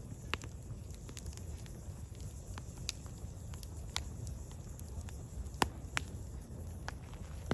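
Firewood burning: scattered sharp crackles and pops at irregular intervals, one louder pop a little past the middle, over a low steady rumble of the fire.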